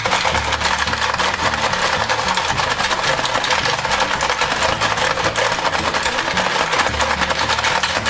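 Gumballs and plastic toy game parts clattering rapidly and without a break while a toy gumball-collecting race runs, with background music underneath.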